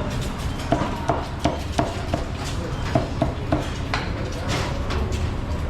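Cleaver chopping on a chopping board: a string of sharp knocks, about three a second in short runs, over a steady low background rumble.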